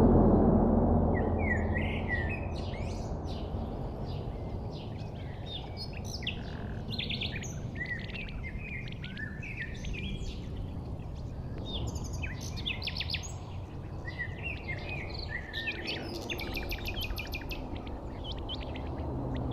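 Several small birds chirping and singing in quick, overlapping phrases over a steady low rumble; a louder low rumble fades away over the first couple of seconds.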